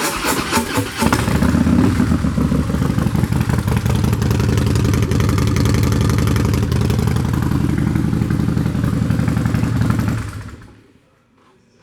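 2014 Harley-Davidson Breakout Screamin' Eagle's 110 cubic inch V-twin running through Vance & Hines drag pipes, loud and steady with a fast, even pulse. It dies away about ten seconds in.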